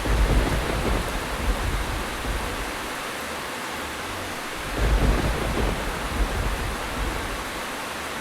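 Steady rain with two deep rolls of thunder, one right at the start and another about five seconds in.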